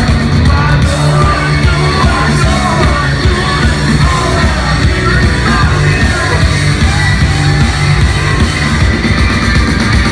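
Rock band playing live at full volume, with sung vocals and shouting over the drums and guitars.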